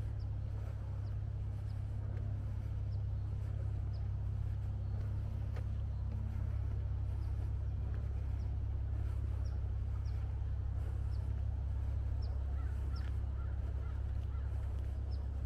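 Outdoor ambience: a steady low rumble with small birds chirping, short high falling notes about once a second, and a brief cluster of lower chirps near the end.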